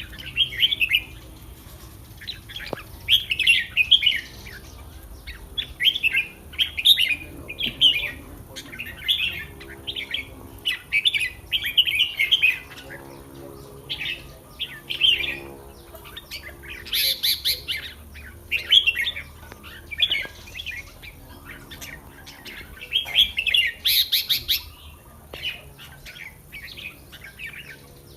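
Red-whiskered bulbul singing: short, bright song phrases repeated again and again with brief pauses between them.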